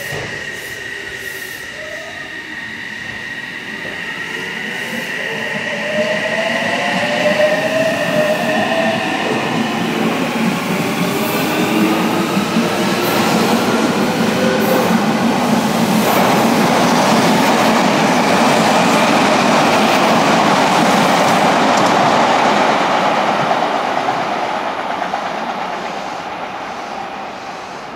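Odakyu electric commuter train pulling out of the station: its motor whine rises in pitch as it accelerates, then the rumble of wheels and cars running past the platform swells, loudest about two-thirds of the way through, and fades near the end.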